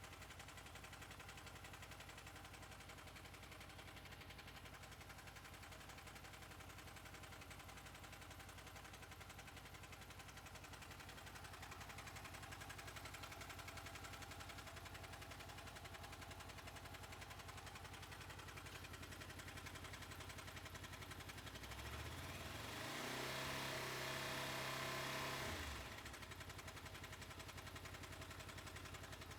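Honda VFR800 VTEC V4 engine idling, with the clicking sound from the engine that is the reason it is being recorded. About 22 seconds in it is revved up, held for a few seconds, then drops back to idle.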